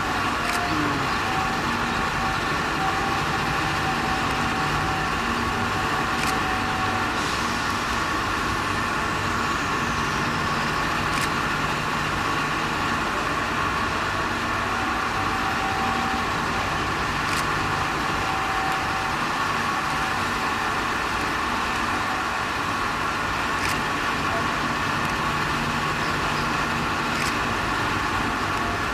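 A train-washing plant running with an electric suburban train in it: a steady mechanical drone with several steady tones, and a few sharp clicks scattered through it.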